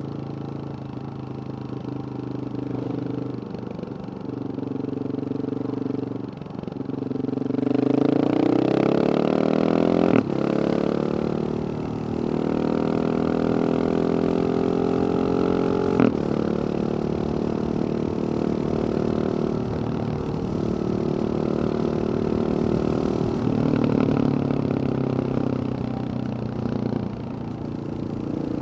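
Husqvarna 701 supermoto's single-cylinder engine through a Wings aftermarket exhaust, running at a steady low note, then rising in pitch as it accelerates from about 8 seconds in. Two sharp clicks, near 10 and 16 seconds, cut through, and the engine then holds a fairly steady note.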